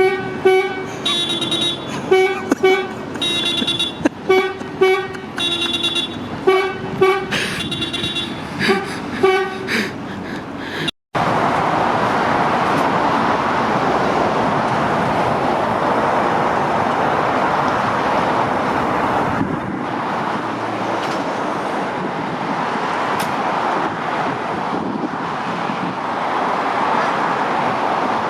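A lorry's horn honked in a rapid string of short toots for about ten seconds. After a sudden cut comes the steady noise of passing motorway traffic.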